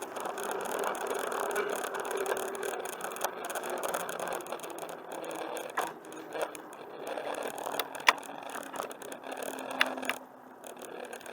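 Bicycle riding along a paved trail: steady tyre and rolling noise with the bike rattling, and a few sharp clicks, the loudest about eight seconds in.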